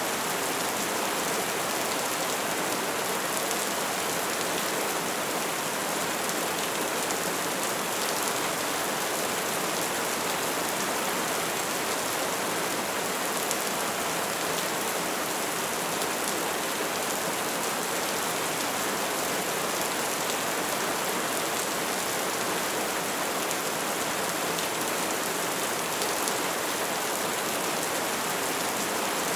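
Steady soft rain falling and pattering on a surface, an even hiss with scattered drop ticks.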